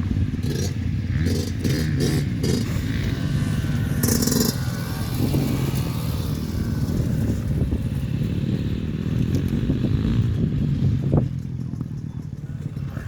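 Motocross bike engines running and revving as the bikes ride the track, with short clattering knocks over the first few seconds. The engine sound gets quieter after about eleven seconds.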